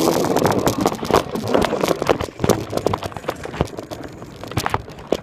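Razor dirt bike setting off with a dense clatter of rattles and knocks, loud for about two seconds, then fainter.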